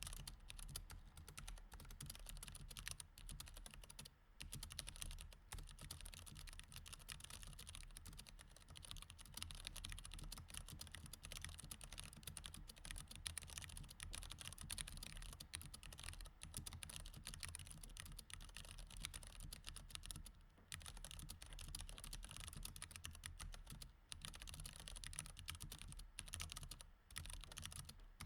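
Fast, steady typing on a mechanical keyboard with Cherry MX Red switches, soft rapid key clicks with a few brief pauses.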